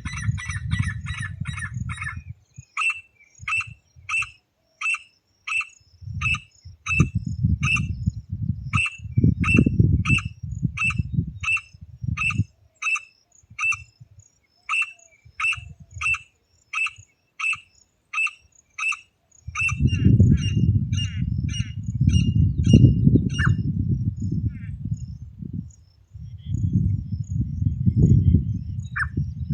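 A partridge (teetar) calling: a long run of sharp repeated notes at about two a second, thinning out and stopping near the end. Bursts of low rumble come and go under the calls.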